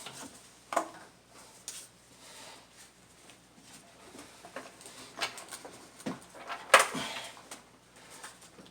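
Scattered clicks, knocks and clanks of hand tools and metal parts being worked loose in a car engine bay, with a sharp knock under a second in and the loudest clank about seven seconds in.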